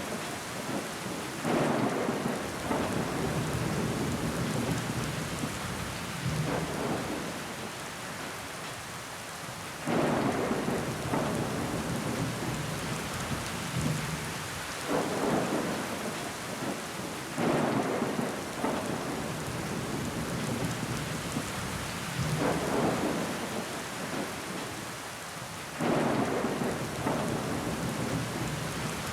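Rain falling against a window pane, a steady hiss, with low rumbling swells that start suddenly and fade over a couple of seconds, about six times.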